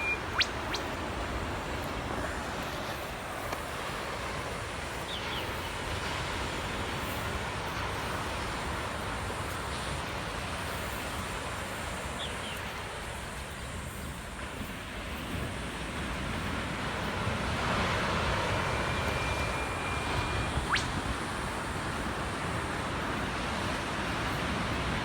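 Steady rush of surf and wind with eastern whipbird calls over it: a long held whistle that snaps into a sharp rising whip-crack, once right at the start and again about twenty seconds in.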